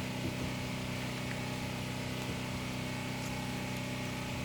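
An engine running steadily at idle, a constant low hum with a few faint clicks over it.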